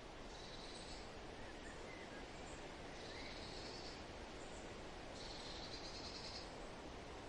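Forest ambience: a steady rustling hiss of wind, with a high, buzzy trill about a second long repeating three times, every two seconds or so, and a couple of faint short chirps.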